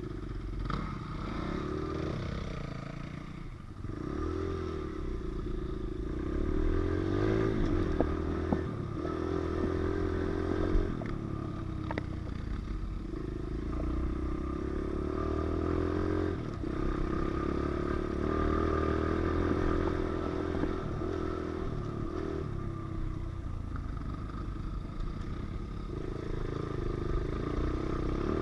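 Pit bike engine running while riding, its pitch rising and falling as the throttle opens and closes, with a few sharp knocks and rattles from the bike.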